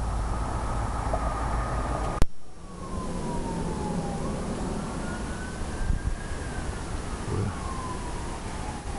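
A siren wailing, its single tone sliding slowly down, then up, then down again over several seconds, over steady background noise. A sharp click about two seconds in.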